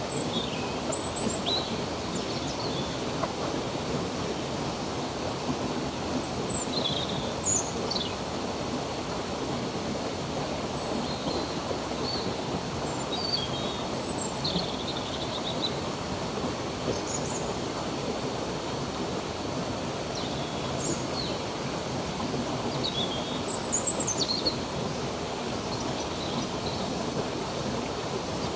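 Steady rush of a stream or small waterfall, with birds chirping and whistling in short calls every few seconds over it.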